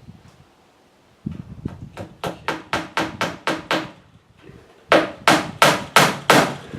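Hammer driving nails into a wooden 2x4 frame, fastening chicken wire: a run of about ten quick blows that grow louder, a short pause, then five harder blows.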